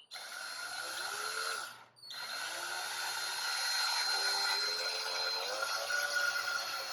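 Power drill driving a 2-inch wood screw into timber. It makes a short run, stops briefly about two seconds in, then makes a longer run with the motor's pitch slowly rising.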